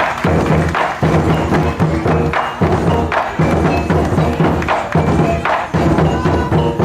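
Percussion music of drums played in a driving, regular rhythm, with sharp wooden clicks among the low drum strokes.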